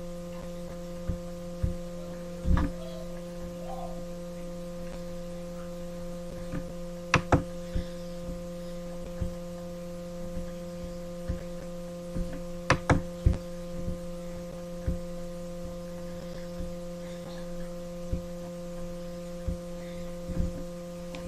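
Steady electrical hum with several pitches held throughout, broken by scattered sharp clicks and knocks, a few of them in quick pairs.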